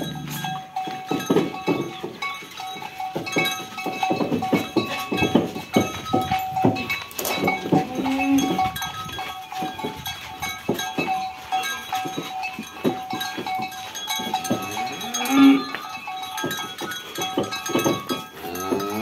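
Bells on draught cattle clanking and ringing unevenly and continuously, with cattle mooing briefly about eight seconds in and again near fifteen seconds.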